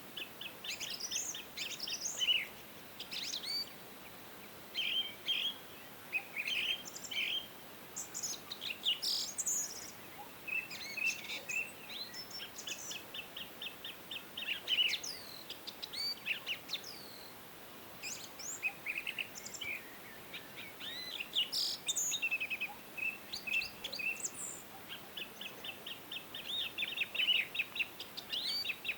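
Several songbirds singing and chirping, with rapid trills and short whistled phrases overlapping, over a faint steady background hiss.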